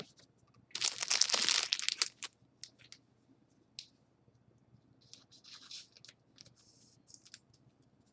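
Foil trading-card pack wrapper torn open in one loud rip lasting about a second and a half, followed by faint crinkling and clicks of the wrapper and cards being handled.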